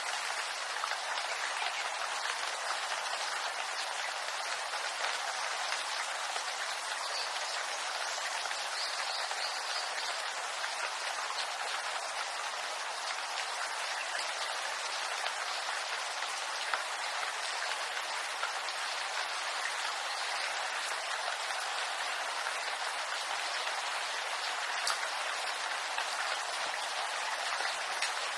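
Steady rain falling on a bamboo grove: a dense, even patter of drops on the leaves, with the odd louder single drop standing out.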